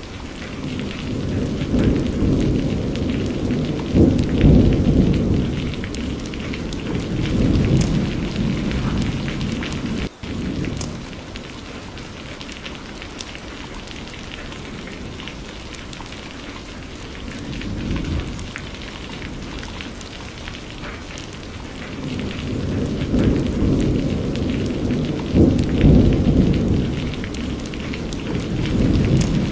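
Steady rain with rolling thunder rumbling in long waves, one through the first ten seconds and another building in the second half. There is a momentary drop-out about ten seconds in.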